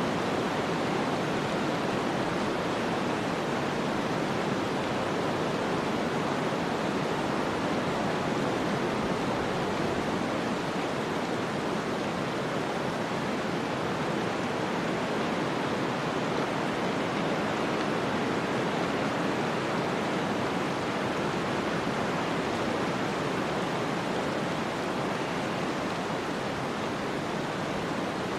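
Snowstorm ambience: a steady, even rushing of wind-driven snow with no gusts or separate sounds.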